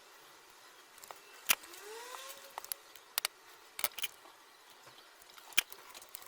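Scattered sharp clicks and taps of small hard objects, about half a dozen, with a short rising squeak or scrape just after the first loud click.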